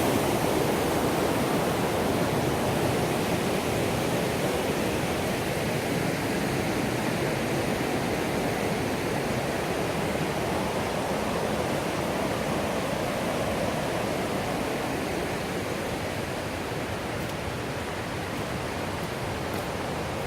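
Rushing water of the Millstone River, a steady, even roar of white water that slowly grows fainter.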